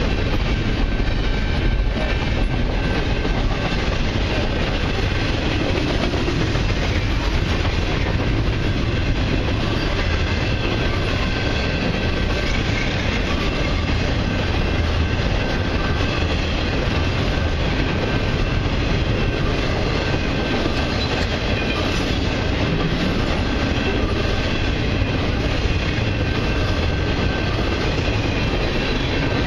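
Long intermodal freight train's cars rolling past at speed: a steady, loud rumble of steel wheels on the rails, with a faint steady ring high above it.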